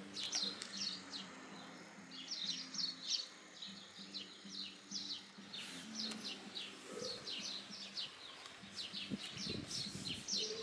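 Small birds chirping in quick series of short high notes, thinning out in the last couple of seconds, over a faint steady low hum.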